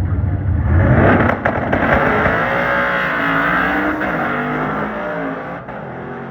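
Drag car launching and accelerating away down the strip: the engine is loudest about a second in, its pitch rises and falls with the revs, and the sound fades as the car goes away.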